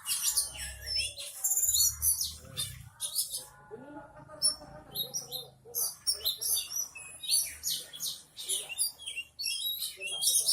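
Oriental magpie-robin (kacer) singing a rapid, varied song of high chirps, whistles and trills, running through its learned mimicked phrases (isian).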